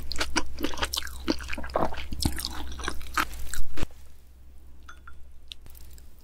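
Close-miked eating sounds: a dense run of quick, crunchy chewing and biting that is loudest just before it stops, about two-thirds of the way in. A few faint clicks follow.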